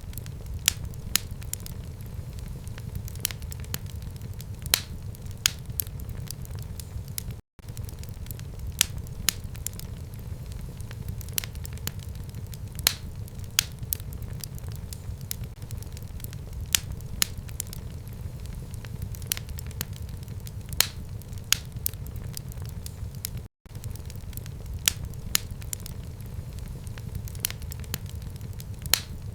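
Wood fire burning in a fireplace: a steady low rumble of the flames with sharp crackles and pops several times a second. The sound cuts out for an instant twice.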